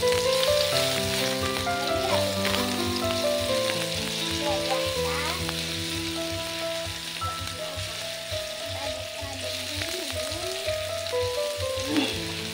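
Ground shallot and garlic sizzling in hot oil in a wok, stirred with a plastic spatula, over background music with held notes. A single sharp knock near the end.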